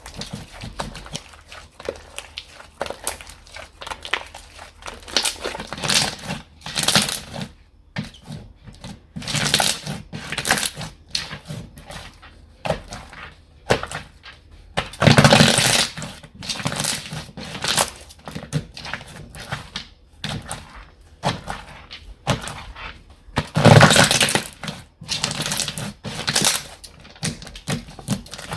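Hands squishing, poking and stretching slime, making a quick run of crackling pops and clicks. Two louder, longer squelches come about halfway through and again near the end.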